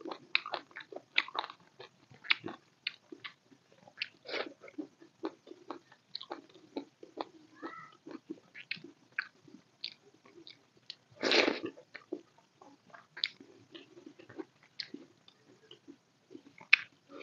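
Close-miked mouth sounds of eating chicken biryani: wet chewing with many short lip-smacking clicks, and one louder, longer mouth noise about eleven seconds in.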